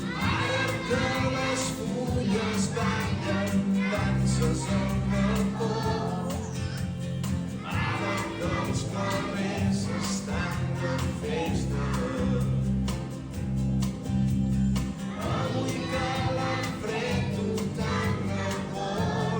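Music: a children's choir singing a song over steady instrumental accompaniment.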